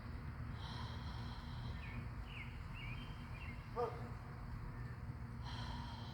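Outdoor ambience of birds chirping a few short calls, with a brief louder call about four seconds in. A high steady trill starts about half a second in, stops near two seconds and returns near the end, all over a low steady rumble.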